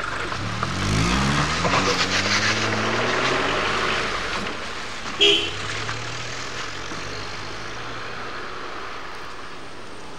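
A car engine speeding up as the car pulls away, its pitch rising over the first few seconds, then fading into a steady wash of street noise. A short sharp sound comes about five seconds in.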